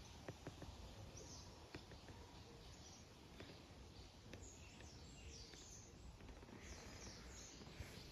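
Near silence in a garden: faint birds chirping in the background, with a few light ticks in the first couple of seconds.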